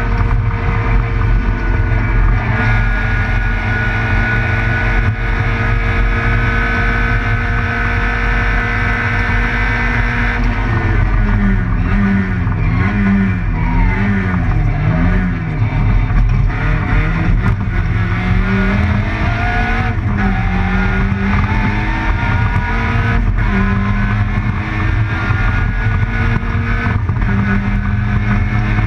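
Peugeot 106 Group A rally car's engine heard from inside the cabin at speed: held at steady revs for about ten seconds, then revs dropping and swinging up and down through a run of bends, and climbing in several steps through upshifts later on.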